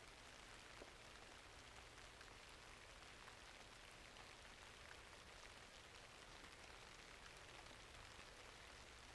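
Faint, steady rainfall, a even hiss with scattered small ticks of drops.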